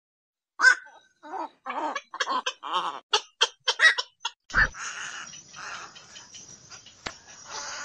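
Black-crowned night heron lure calls: a quick run of short, harsh croaks, then a steady hiss from about halfway, with a few fainter calls over it.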